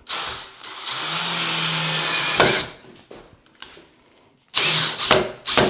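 Power drill running into hard maple, its motor holding a steady pitch under load for about two and a half seconds, then a second shorter run near the end.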